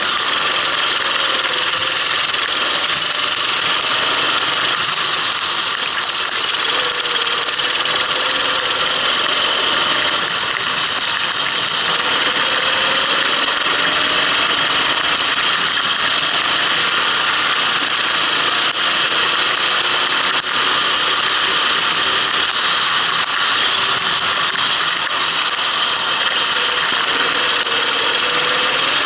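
Kart engine running on track, heard onboard, its pitch slowly rising and falling with the throttle under a constant rush of noise.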